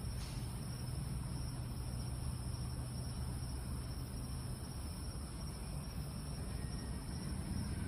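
Steady chorus of night insects, a continuous high trilling hum, over a low steady rumble.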